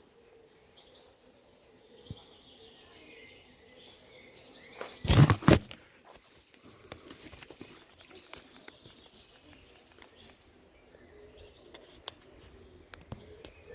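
Quiet outdoor background with faint bird calls. About five seconds in comes a brief, loud burst of two or three quick hits.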